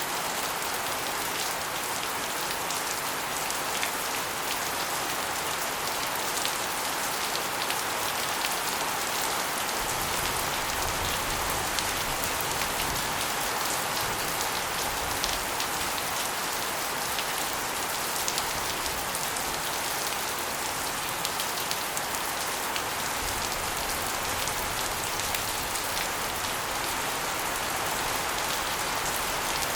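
Steady rain, with water spilling off an asbestos roof and splashing onto a concrete floor and walls: a dense hiss of many small drops and splashes, with a low rumble that comes in about ten seconds in and fades some thirteen seconds later.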